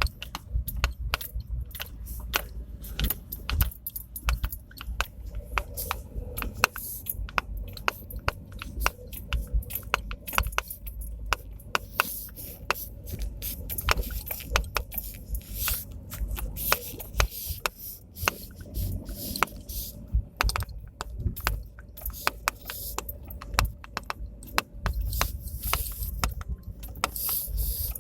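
Knocking and rattling from a Lada Priora, a dense, irregular run of sharp clicks and knocks over a steady low rumble, the knock-and-squeak fault the owner is recording.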